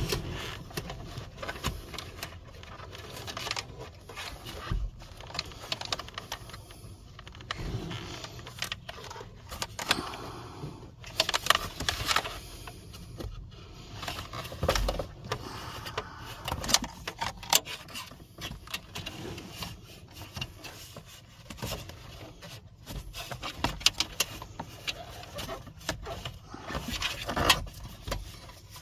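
Irregular handling noise under a car's dashboard: scattered plastic clicks, scrapes and rustles while a zip tie is fitted at the HVAC blend door actuator.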